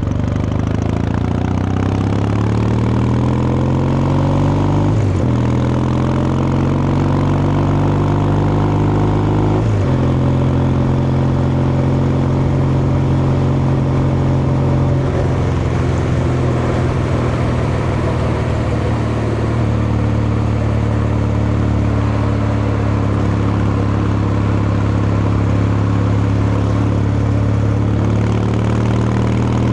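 Kawasaki Meguro K3's vertical-twin engine and exhaust under way: it rises in pitch through two gear changes, about five and ten seconds in, then holds a steady cruise, easing off briefly around the middle and picking up again near the end.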